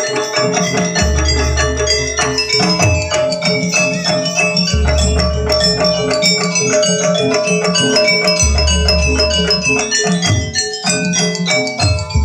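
Javanese jaranan gamelan music: metallophones playing a dense run of ringing struck notes over a steady pulse. A deep low note comes in about every four seconds, about a second in, near the middle, about two-thirds through and again near the end.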